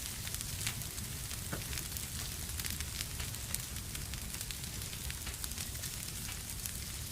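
Wood fire crackling in a fireplace: a steady hiss with many small, sharp pops and snaps scattered throughout.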